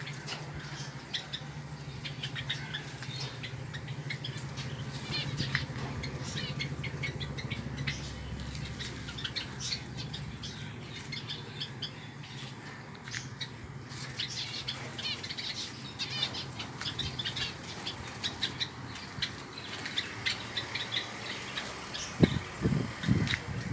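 A group of small birds chirping busily, with wings fluttering, over a low steady hum in the first half. A few low thumps come near the end.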